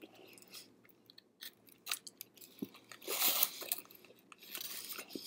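A person chewing a mouthful of lemongrass chicken bánh mì on a crusty baguette, close to the microphone: soft wet mouth clicks and crunching, louder about three seconds in.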